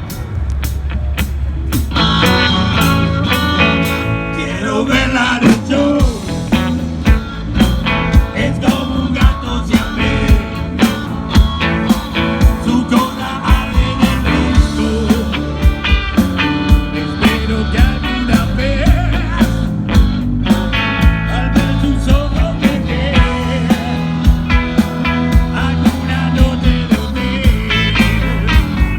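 Rock band playing an instrumental intro: a steady drum beat under bass and guitar, with no lyrics sung yet.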